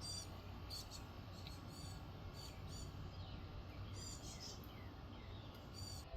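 Small birds chirping faintly: short high chirps and trills every second or so, with a few quick falling notes, over a steady low hum.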